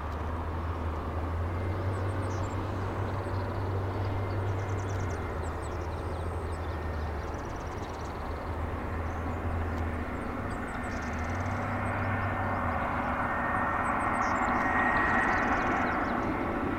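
Jet airliner engine noise across the airport: a steady rumble that slowly grows louder, with a faint engine whine rising near the end.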